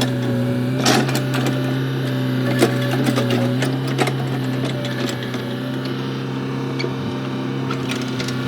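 Komatsu excavator's diesel engine running steadily, with scattered knocks and clunks from the machine at work.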